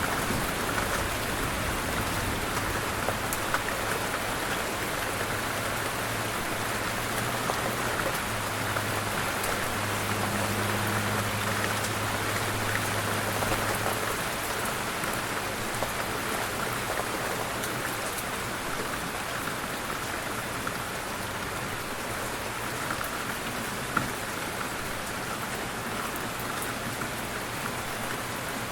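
Steady rain falling on a surface, with individual drops pattering. A low rumble underneath fades out about halfway through.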